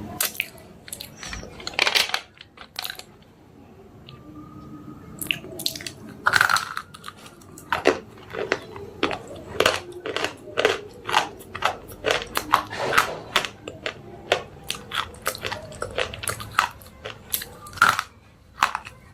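Slate pencils being bitten and chewed: a few sharp crunches, a quieter pause of a couple of seconds, then a steady run of crunchy chewing at a couple of bites a second.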